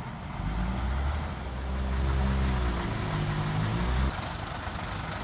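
Praga V3S truck's Tatra six-cylinder air-cooled diesel running, its note dipping and then rising again. About four seconds in the loud engine sound cuts off sharply, leaving a quieter hum.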